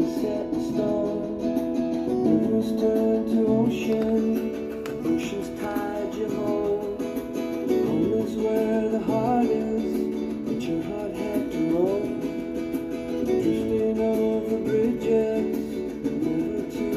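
Acoustic guitar music, plucked and strummed, with a few notes sliding upward in pitch.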